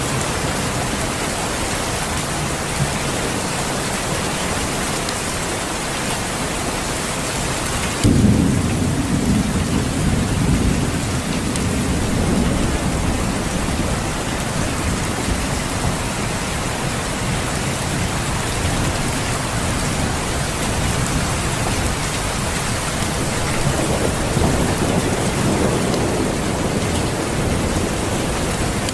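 Steady rain, with a sudden rumble of thunder about eight seconds in that rolls on and fades over several seconds; a softer rumble follows later.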